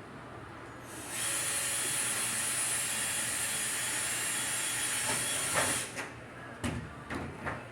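A steady hiss of pressurised spray or air starts about a second in, runs for about five seconds and cuts off suddenly. A few light knocks follow.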